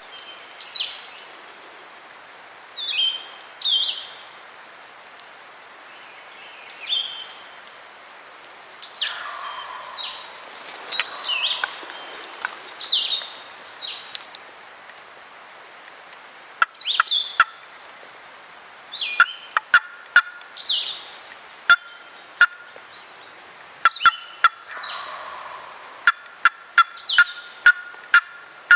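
Wild turkey gobbling, with songbirds giving short high falling notes throughout. From about halfway a run of sharp clicks joins in.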